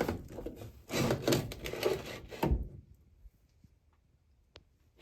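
Rubbing and knocking of something being handled and moved, for about two and a half seconds and ending in a dull thud, then near quiet with a short faint tone near the end.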